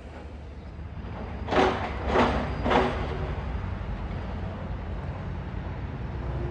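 Train rumbling steadily in a station. About a second and a half in come three short, loud, noisy bursts, evenly spaced about half a second apart.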